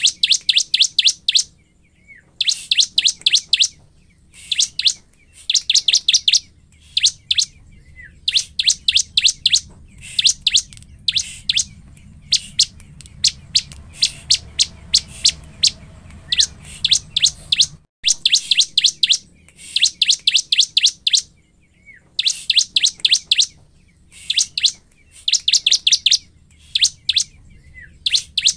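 Bar-winged prinia singing in full, lively song (gacor): bursts of rapid, sharp high chirps, each about a second long, repeated every couple of seconds. It is the kind of song played as a lure to provoke other prinias.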